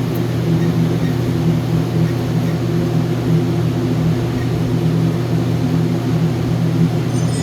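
A steady, unbroken low mechanical drone with a constant pitch.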